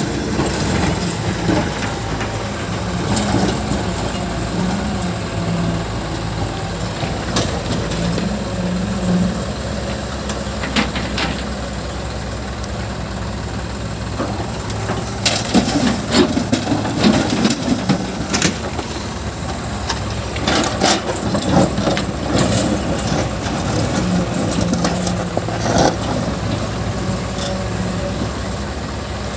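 A JCB backhoe loader's diesel engine running steadily, with scattered clanks and crunches from the digging work, heaviest in the middle of the stretch.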